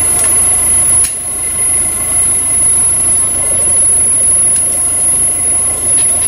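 Off-road 4x4 vehicle's engine running steadily, a continuous drone with a thin high whine over it.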